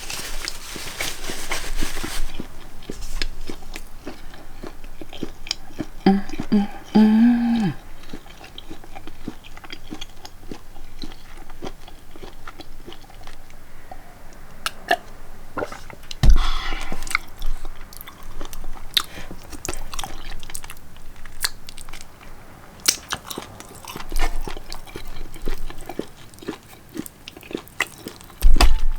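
A person chewing and biting food close to the microphone, with many small clicks throughout. There is a brief low hum about six seconds in and a single thump at about sixteen seconds.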